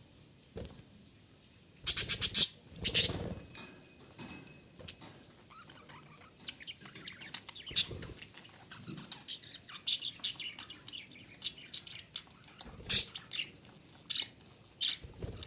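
Female budgerigar chirping and chattering: a quick run of sharp chirps about two seconds in, then scattered short chirps and clicks, with one loud chirp near the end.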